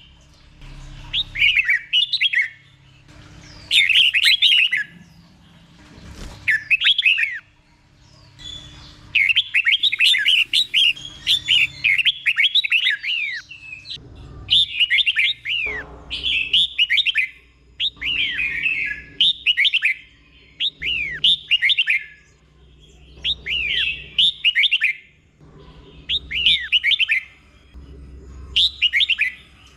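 Red-whiskered bulbul singing: short phrases of quick, warbling whistled notes, each about a second long, repeated over and over with brief pauses between them.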